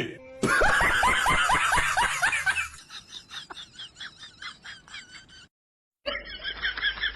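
Rapid, repeated bursts of laughter, loud for the first couple of seconds and then fading. It breaks off suddenly, and after a brief silence another stretch of laughter begins.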